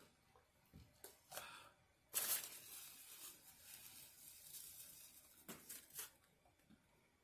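Food packaging rustling and tearing: a few faint crinkles, then about four seconds of continuous crinkling that starts abruptly about two seconds in and ends with two sharp crackles.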